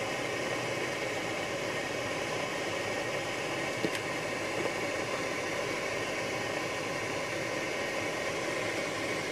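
Steady rushing noise of a car creeping along a deep, unplowed snow-covered road, heard from inside the cabin: engine, tyres in the snow and wind blended together. One faint tick about four seconds in.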